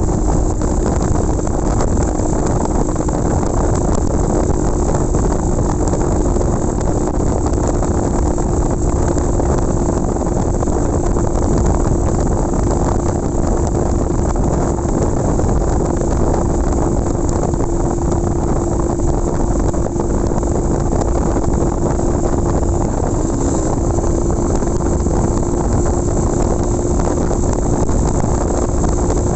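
Motorcycle engine running at a steady speed while riding, its note holding even over a constant rush of wind and road noise. The engine tone wavers briefly about three-quarters of the way through.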